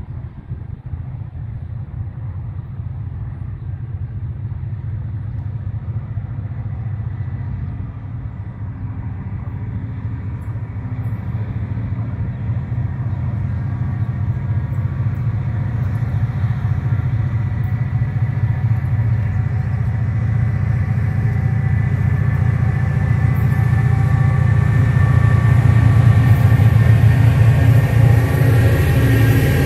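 Diesel locomotives hauling a freight train approaching, their engine drone growing steadily louder until the locomotives draw level near the end.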